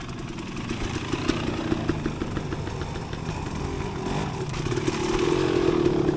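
Dirt bike engine running at low speed under uneven throttle, growing louder in the last couple of seconds.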